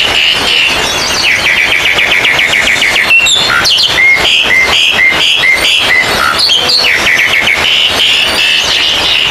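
Oriental magpie-robins (kacer) singing loudly over one another in a contest-style chorus, with rapid trills and, midway, a run of about five repeated whistled notes.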